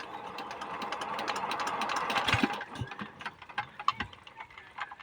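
5 hp diesel water-pump engine knocking rapidly, the beat building for about two and a half seconds, then slowing into scattered, irregular knocks.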